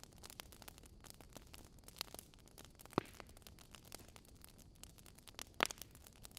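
Fire crackling: a steady scatter of small pops and ticks, with two louder sharp snaps, one about halfway through and one near the end.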